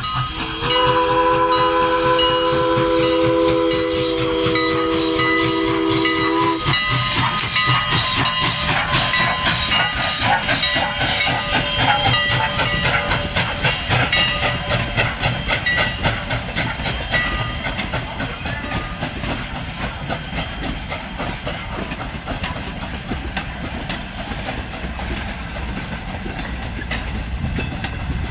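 A steam locomotive's chime whistle blows one steady chord for about six seconds. The train then passes with a fast rhythmic clatter and hiss that slowly fades.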